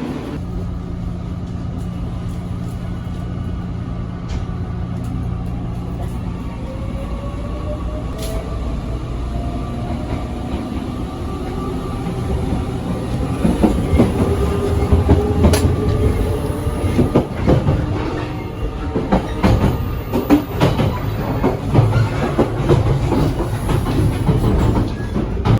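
JR Kyushu 883 series electric train running and picking up speed: a steady low rumble with a motor whine that slowly rises in pitch. From about halfway, the wheels knock and click irregularly over the rail joints and the sound grows louder.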